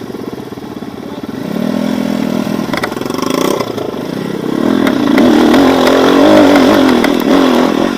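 Off-road motorcycle engine revving under load. Its pitch rises about a second and a half in, then swings up and down and grows louder from about halfway through.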